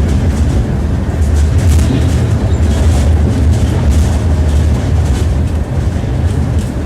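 Tram running along the track, heard from inside the car: a steady low rumble with the clatter of wheels over rail joints, which comes irregularly rather than as an even beat.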